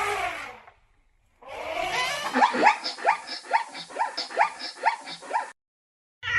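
Dog yelping: a quick run of short, rising yelps, about three a second, lasting some four seconds, after a held whine that fades out less than a second in.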